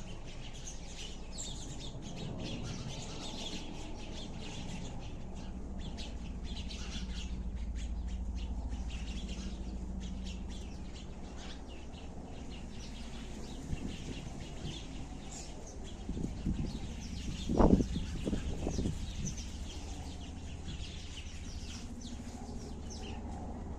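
Sparrows chirping, many short calls overlapping throughout, over a steady low hum. A brief cluster of louder, lower-pitched sounds comes about two-thirds of the way through.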